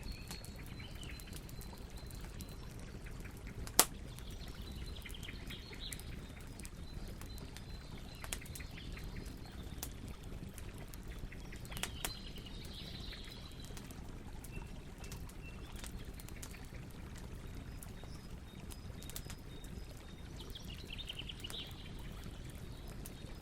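Campfire crackling, with scattered pops and one sharp pop about four seconds in, over a low steady rumble. Birds chirp faintly every few seconds.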